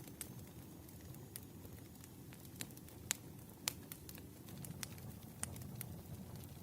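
Campfire crackling: a steady low rumble of burning wood with irregular sharp pops, the strongest two about three seconds in.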